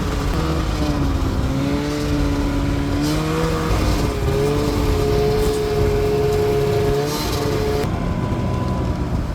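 Two-stroke Arctic Cat snowmobile engine running under way, its pitch rising and falling as the throttle changes.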